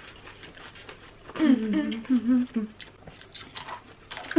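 Raw cucumber being chewed with a mouth full, with many small crunching clicks. From about a second and a half to nearly three seconds in, a muffled, mouth-full voice sounds over the chewing and is the loudest part.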